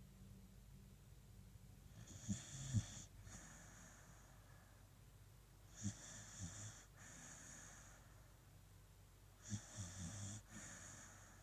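A sleeping beagle snoring: three breaths about three and a half seconds apart, each in two parts, with a short low rattle under a high hiss.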